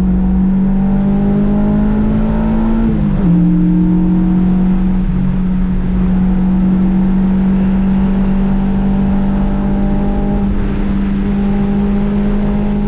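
Honda Civic's engine running hard on track, its pitch climbing for about three seconds before a sudden drop at an upshift, then holding steady at high revs.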